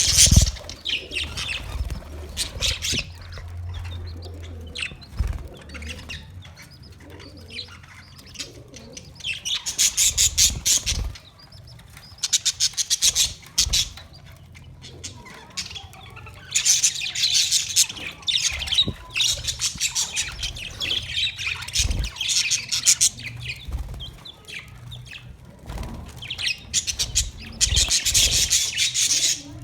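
Budgerigars chattering in rapid bursts of high chirps, about four bursts with quieter stretches between, and occasional low thumps.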